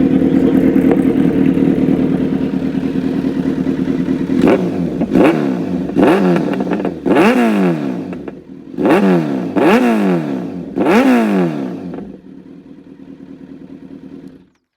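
Kawasaki Z900's inline-four engine with an Arrow full exhaust system idling, then blipped about seven times in quick succession, each rev rising and falling sharply. It then settles back to a quieter idle that cuts off suddenly near the end.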